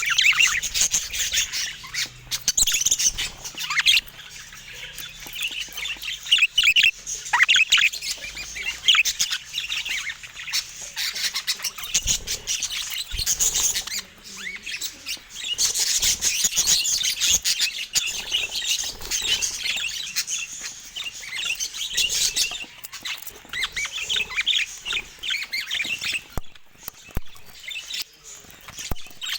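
Budgerigars chattering: a continuous stream of quick chirps and warbling calls, louder in stretches.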